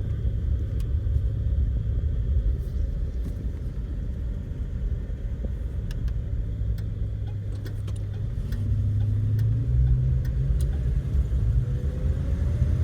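The 1970 Dodge Dart Custom's carbureted engine running at low speed, heard from inside the car, then picking up and rising in pitch about eight seconds in as the car accelerates. The car is being driven to bring on a hesitation under acceleration from a stop, which the owner blames on the carburetor.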